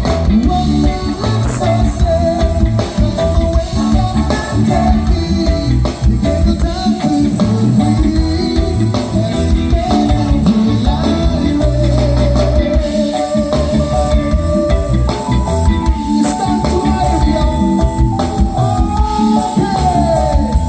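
A live reggae band playing, with a drum kit and a strong bass line under held melodic lines from the instruments.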